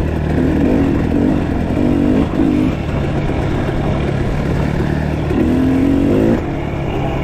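Off-road motorcycle engines running on a trail ride, a steady engine drone with the throttle opening and easing in several short surges.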